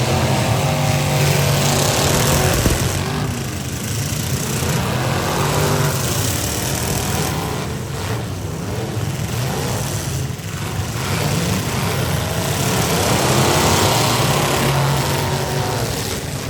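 V8 engines of demolition derby cars running and revving up and down, with a brief louder knock about three seconds in.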